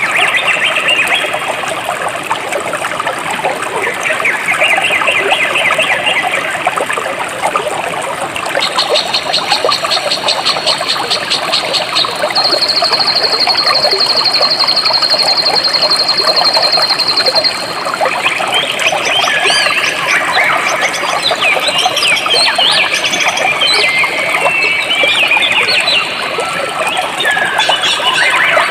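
A jungle stream flowing steadily, with birds chirping over it. In the middle a high, rapid trill starts and is held for about five seconds, and a flurry of quick chirps fills the last third.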